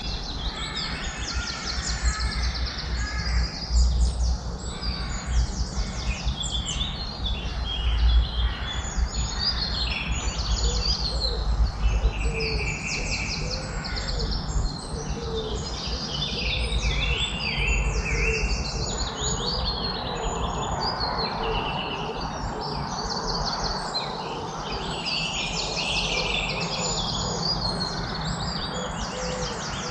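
A dense chorus of many songbirds chirping and trilling at once, calls overlapping without pause, over a steady background hiss. A low rumble sits under the birds for the first half and then fades.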